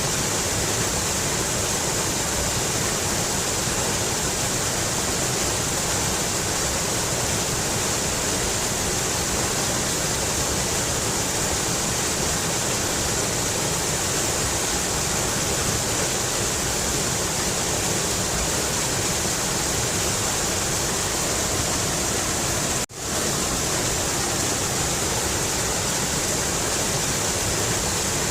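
Mountain river rushing steadily over rocks, a constant even roar of water. It drops out for a split second about three-quarters of the way through.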